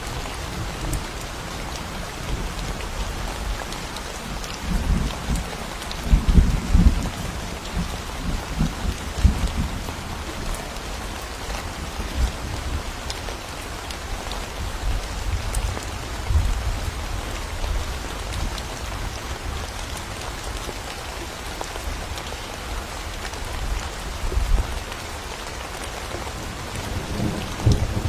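Thunderstorm: steady rain falling, with rolling thunder rumbling several times, strongest about five to ten seconds in and building again near the end.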